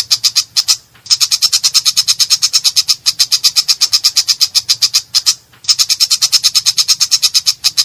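Long-tailed shrike (cendet) singing a harsh, rapid rattle of short repeated notes, about nine a second, broken by two brief pauses.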